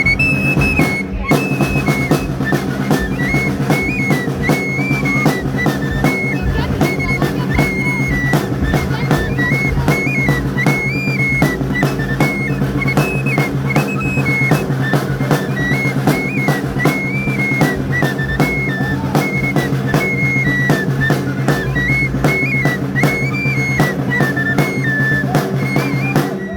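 Flute and drum playing torito dance music: a high flute melody that repeats its short phrases over a steady drum beat.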